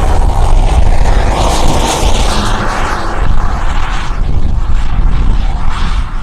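Model turbine jet flying past, its rushing sound swelling and then easing, over heavy wind buffeting on the microphone.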